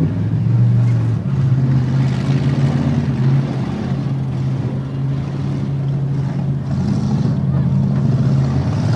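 Demolition derby car engines running, one held at a steady pitch for most of the time before it drops away near the end.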